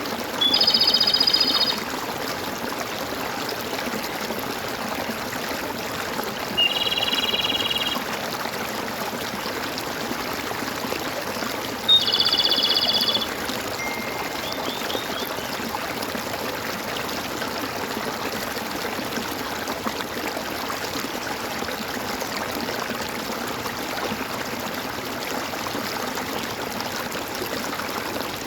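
Water gurgling and trickling steadily over stones in a small stream, with a bird singing three loud, rapid trills, each lasting about a second, near the start, about seven seconds in and about twelve seconds in, followed by a few faint chirps.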